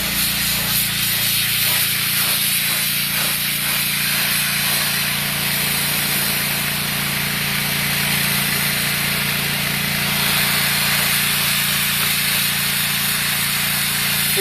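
Pressure washer spraying water onto a concrete driveway: a steady hiss of spray over the even hum of the engine that powers the washer.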